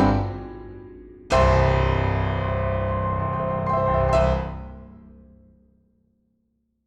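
Background piano music: a phrase of notes dies away, then a chord is struck about a second in and rings out slowly, fading to silence near the end.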